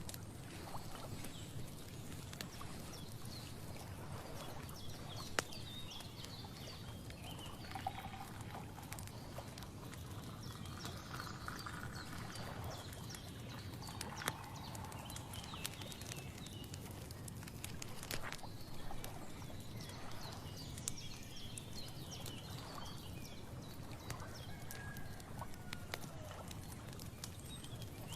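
Countryside ambience: faint, scattered animal calls and chirps and occasional small clicks over a steady low background noise.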